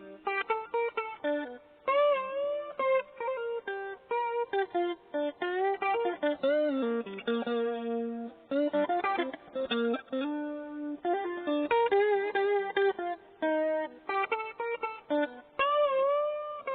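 Cheap maple-body electric guitar played solo: a single-note melody, picked, with string bends and vibrato on held notes.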